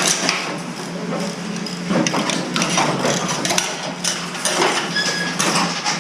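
Mini excavator working: the diesel engine runs steadily under irregular knocks and clanks of the bucket striking and scraping hard material.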